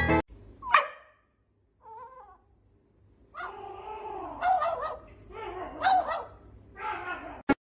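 A dog giving a run of about five short whining yips, the first one the longest, after a brief rising squeak near the start.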